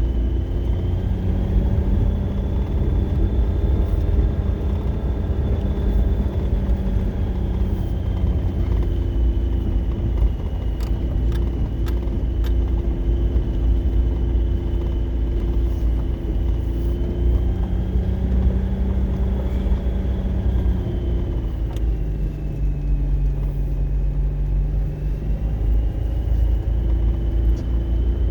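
Motor vehicle driving: a steady low engine and road rumble whose engine note shifts in pitch several times, with a faint high whine over it and a few light clicks about halfway through.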